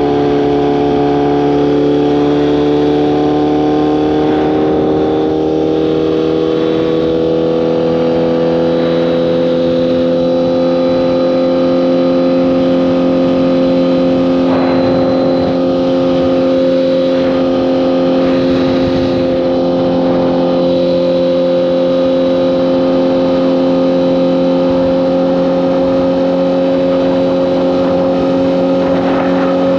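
Honda CBR1000RR's inline-four engine running under way. Its pitch rises gently over the first ten seconds or so, then holds steady at cruising revs.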